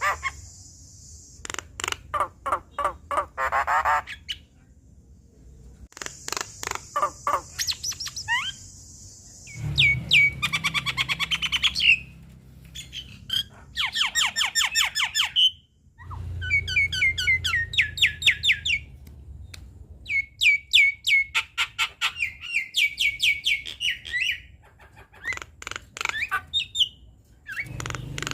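Javan myna singing a loud, varied song: bursts of rapid clicks and harsh rasping notes, then fast runs of repeated squeaky notes, broken by short pauses between phrases.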